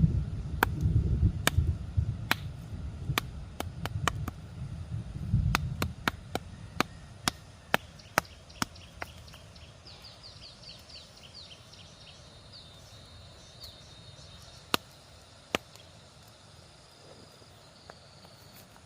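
Sharp, irregularly spaced knocks, like chopping, over a low rumble that fades out about six seconds in. A quick run of high chirps, like a small bird, sounds about halfway through.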